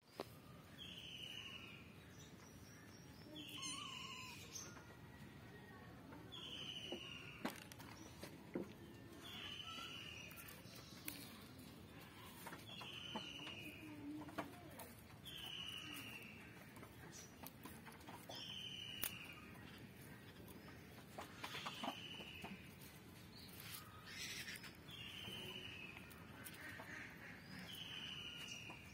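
A bird calling in the background: a short, slightly falling high note repeated about every three seconds, about ten times. Scattered light clicks and knocks come between the calls.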